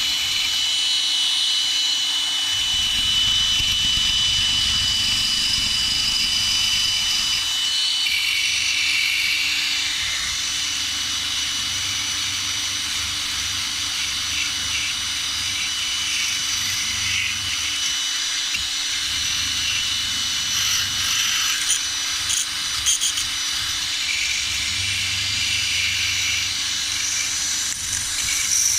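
Electric power tool running steadily with a high whine, cleaning dirty motorcycle washers held in a clamp. A few sharp clicks come about two-thirds of the way through.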